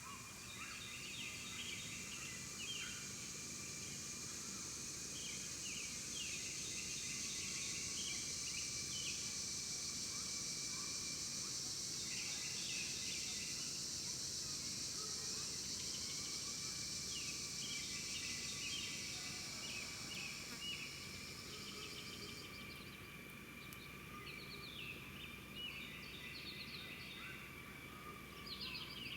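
Outdoor ambience of small birds chirping in short, repeated bursts, over a steady high-pitched hiss or buzz that cuts off suddenly about three-quarters of the way through.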